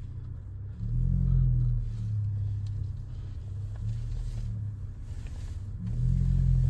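Low engine and exhaust rumble of a Hyundai Tucson with an aftermarket exhaust, swelling louder twice as the car pulls away, about a second in and again near the end.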